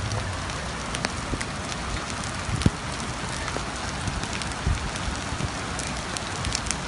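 Heavy rain falling on wet stone paving: a steady hiss dotted with many small drop ticks, with a few dull low thumps, the loudest about two and a half seconds in.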